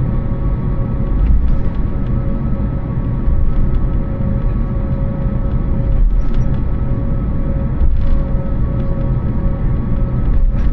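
Jet airliner engines and airflow heard inside the passenger cabin of an Airbus A320-family jet: a steady loud rumble with a constant hum of several tones, and a few faint rattling clicks.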